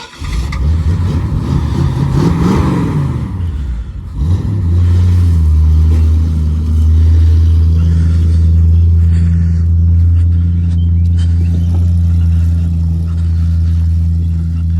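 1968 Ford Torino GT's V8 engine running after a fresh start. It is revved once about two seconds in, the pitch rising and falling, then settles into a steady idle.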